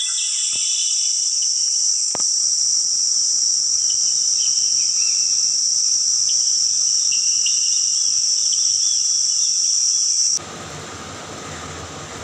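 Steady, loud, high-pitched insect chorus with a few faint chirps and two brief clicks in the first couple of seconds. About ten seconds in it cuts off abruptly, giving way to a quieter, even rushing noise, likely the waterfall itself.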